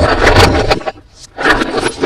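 Close-up handling of toy packaging being unboxed: scraping and rustling in two bursts about half a second apart.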